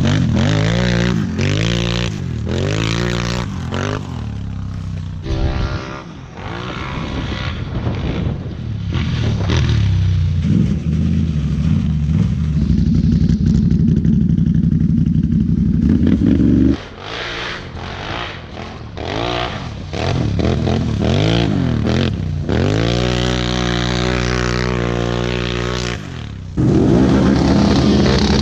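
Can-Am Renegade/Outlander 1000 ATV V-twin engines through RJWC aftermarket exhausts, revving up and down again and again. In the middle they hold steady at high revs for several seconds, and the sound breaks off abruptly a little past halfway.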